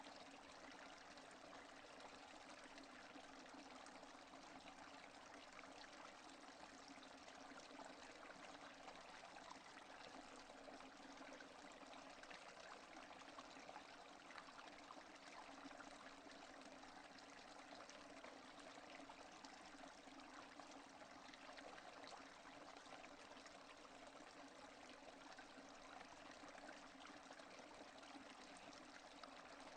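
Steady rain without thunder, a faint, even hiss of countless drops that does not change.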